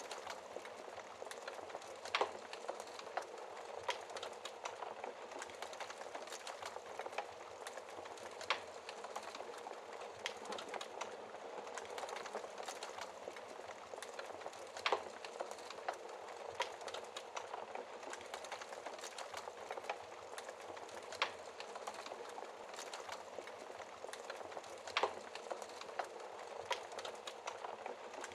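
Wood fire crackling in a fireplace: a steady hiss of burning with constant small crackles and a few sharper, louder pops at irregular intervals.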